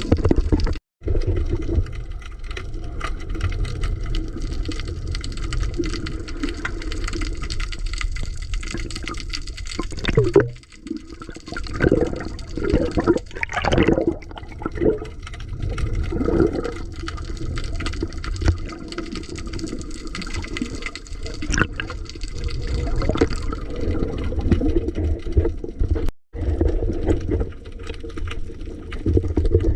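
Water sloshing and rushing, heard muffled through an underwater camera housing, with an uneven run of louder surges in the middle. The sound cuts out abruptly for a moment about a second in, and again near the end.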